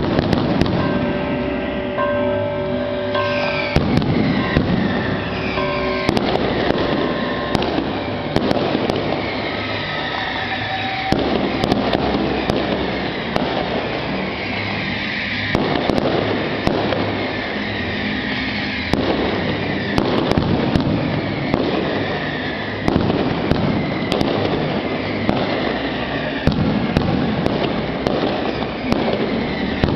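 Fireworks going off continuously: dense crackling and sharp pops, with many whistling shells gliding in pitch throughout.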